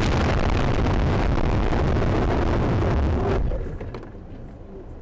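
Loud, steady rushing rumble of vehicle and wind noise on a dashcam's microphone, dropping sharply about three and a half seconds in to a much quieter hiss.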